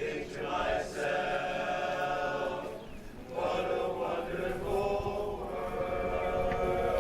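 A vocal group singing a cappella in close harmony, holding long chords in two phrases with a short breath between them about three seconds in.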